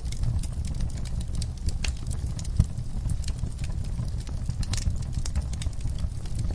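Wood fire burning in a fireplace: a steady low rumble of the flames with irregular crackles and snaps, one pop louder than the rest about two and a half seconds in.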